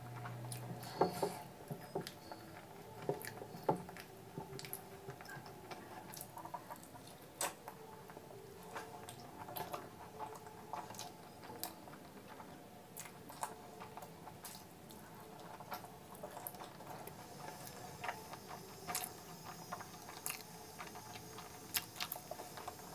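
Close-miked chewing of curry-soaked puri: irregular wet clicks and smacks of the mouth. Soft squishes come from the food handled by hand.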